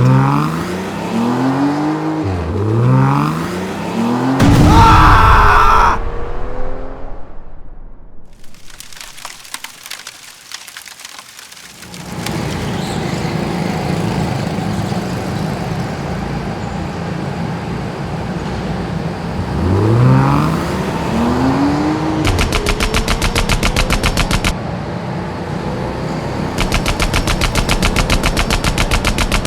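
Sound effects of car engines revving up in rising sweeps, with a loud burst of noise about five seconds in, then a steady engine. Near the end come two long bursts of rapid machine-gun fire.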